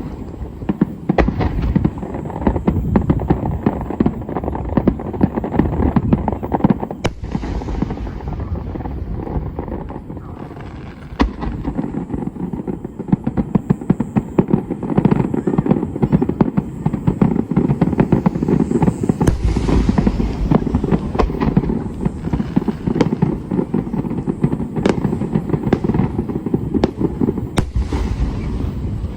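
Fireworks display: a dense, continuous barrage of aerial shell bursts, booms and rapid crackling pops. It eases briefly about ten seconds in, then picks up again.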